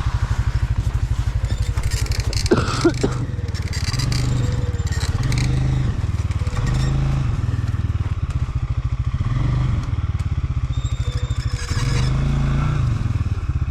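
Stels Leopard 650 quad bike's engine running under throttle, the revs swelling and dropping every couple of seconds as it works to pull the stuck machine out of the snow. There is a brief sharp knock or clatter about two and a half seconds in.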